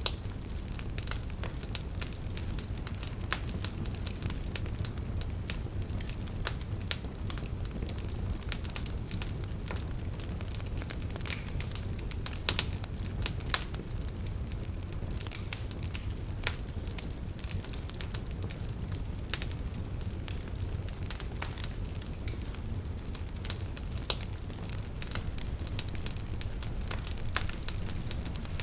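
Wood fire burning in a fireplace: a steady low rumble of the flames with frequent irregular sharp crackles and pops from the logs.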